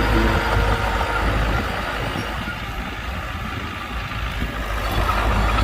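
Heavy diesel machinery engine running with a deep, steady rumble, easing off through the middle and building again near the end.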